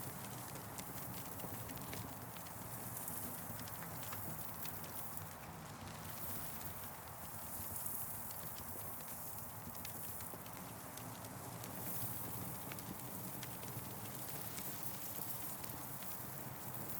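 Campfire crackling: irregular sharp pops and snaps over a steady hiss that swells and fades.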